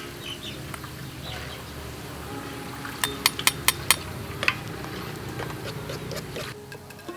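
Dishes and utensils clinking: a quick run of about five sharp clicks, roughly four a second, about three seconds in, with a few fainter clicks around them.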